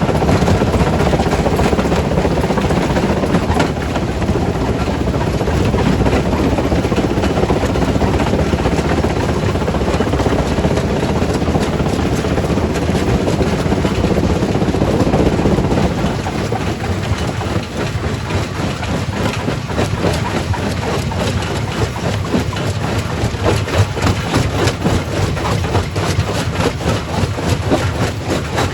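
Quarry primary rock crusher running, a loud, dense grinding rumble of stone being broken. About sixteen seconds in the heavy rumble eases and sharper knocks and clatter of rock come through.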